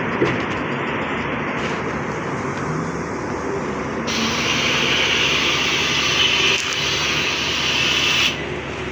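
ZiU-682G trolleybus running, heard from inside the passenger cabin: a steady ride noise, with a loud hiss starting about four seconds in and cutting off suddenly about four seconds later.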